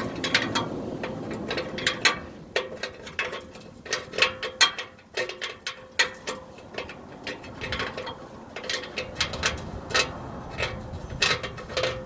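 Ratchet wrench clicking in irregular runs as an oxygen sensor is wrenched loose and unscrewed, with light metallic clinks.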